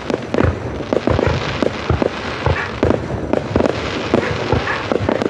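Fireworks display going off in rapid, irregular bangs, several a second, over a continuous haze of noise.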